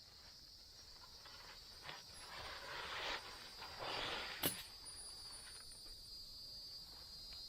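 Faint, steady high-pitched buzz of insects, with two swells of rustling or scraping noise around the middle and a single sharp knock about four and a half seconds in.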